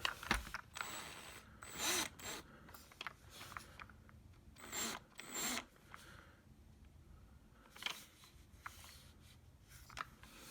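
A screwdriver being worked into a printer's plastic housing toward a recessed screw: scattered clicks and a few short scrapes of metal on plastic.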